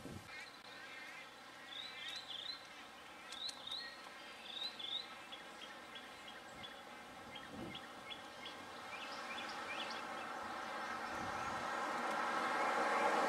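Birds chirping in quick, high bursts of short notes, with a rushing noise swelling steadily louder over the last few seconds.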